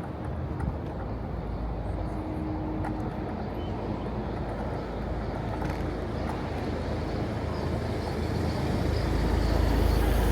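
City street traffic noise heard from a moving electric scooter, a steady low hum of cars and tyres, with a low rumble swelling near the end.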